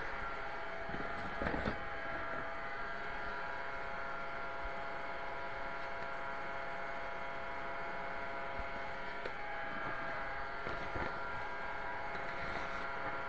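A steady hum made of several constant tones, with a few light knocks about a second and a half in and again near eleven seconds.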